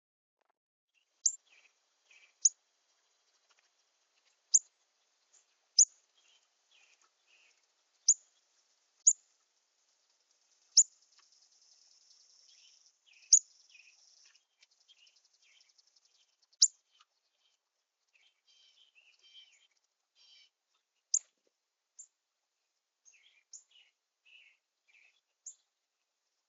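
Songbirds at a backyard feeder: about a dozen sharp, high, down-slurred chip notes at irregular intervals, over soft twittering, with a faint high buzzy trill about halfway through.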